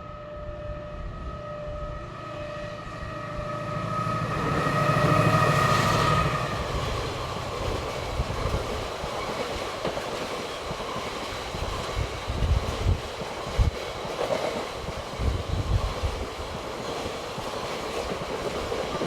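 A train passing on the line. A steady whine builds to its loudest about five seconds in, then gives way to the wheels rumbling and clattering with irregular low thuds.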